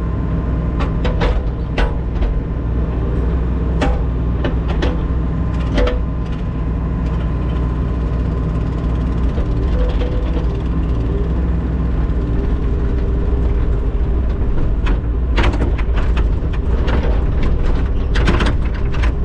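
Skid steer loader's engine running steadily under load while its bucket digs a wall footer, with repeated sharp metal clanks and knocks from the bucket, thickest near the end.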